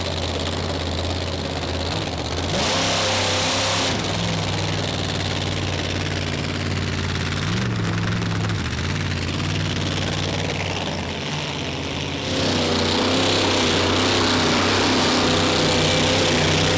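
Monster truck engine running with a deep, steady note, its pitch stepping up briefly a few times, with a short rush of noise about three seconds in. About twelve seconds in the engine revs higher and louder and holds there.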